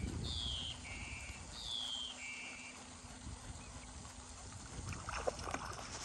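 A bird calling two similar phrases, each a high falling note followed by a lower steady note, over a low rumble. A few faint clicks come near the end.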